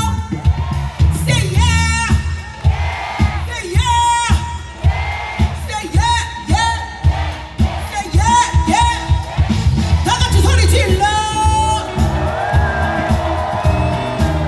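Live band playing a pop song with a lead vocal sung over a steady drum beat.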